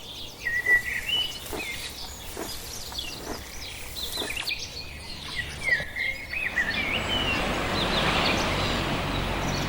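Birds chirping, with many short gliding whistled calls. About two-thirds of the way in, a steady hiss of background noise rises under the calls.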